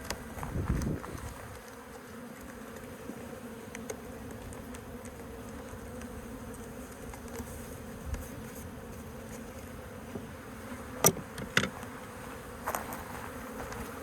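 Honeybee colony buzzing, a steady hum of many bees, with two sharp knocks a little after eleven seconds in.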